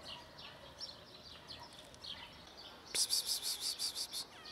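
Small birds chirping outdoors: short, repeated falling chirps, then about three seconds in a loud, rapid high-pitched trill lasting just over a second.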